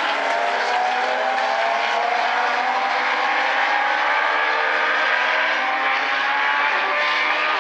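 A pack of Legends race cars running hard together, their high-revving motorcycle engines overlapping, with several engine notes rising steadily as the cars accelerate.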